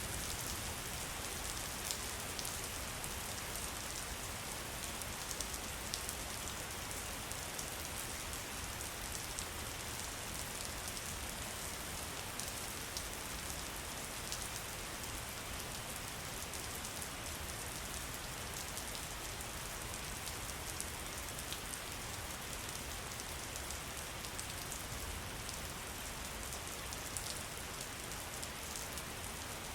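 Steady rain falling, with many small, sharp drop ticks scattered through an even hiss.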